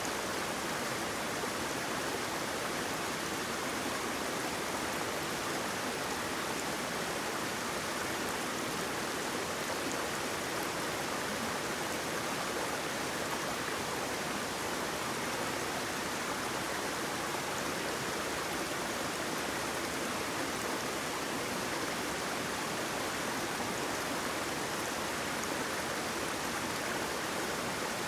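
Waterfall: water falling and rushing in a steady, even hiss with no breaks or changes.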